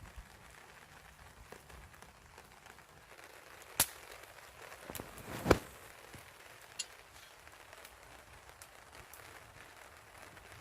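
Campfire cooking: a faint steady crackle with a few sharp clicks, the loudest a little past halfway.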